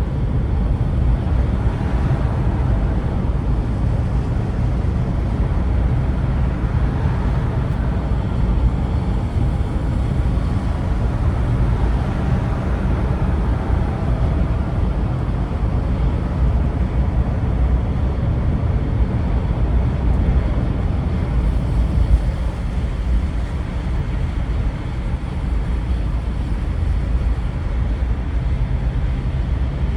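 Steady vehicle driving noise: a low engine and road rumble with no sudden events, as a car moves through slow traffic.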